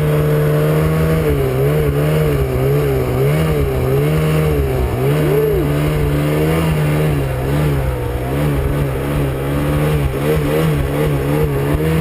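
Snowmobile engine running under load, its pitch rising and falling repeatedly as the throttle is worked.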